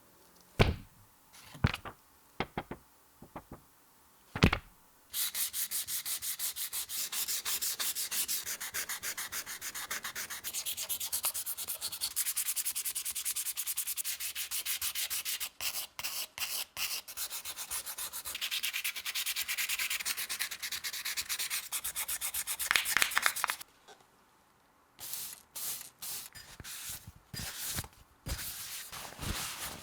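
Hand sanding: abrasive rubbed rapidly back and forth over a surface in long continuous runs of strokes, stopping briefly and then going on in shorter spurts. A few sharp clicks, like parts being handled, come before the sanding starts.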